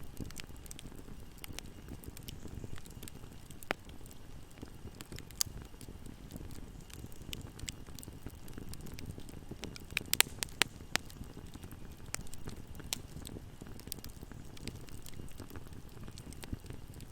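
Fire burning in a fireplace: a steady low rumble of flames under scattered sharp crackles and pops, with a quick cluster of louder pops about ten seconds in.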